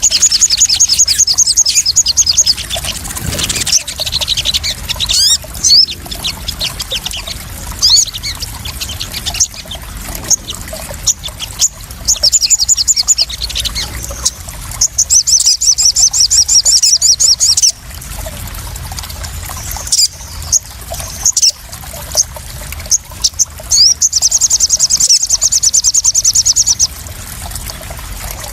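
Crimson sunbird (sogon) song played as a lure: high, fast trills lasting two or three seconds, repeated about four times, with sharp single chirps in between, over steady splashing and trickling water.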